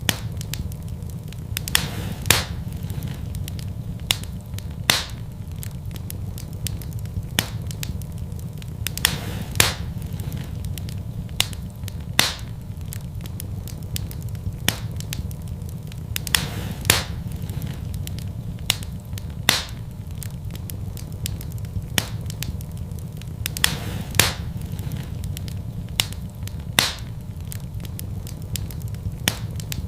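Wood fire in a fireplace crackling: irregular sharp pops and ticks, a louder one every two to three seconds, over a steady low rush.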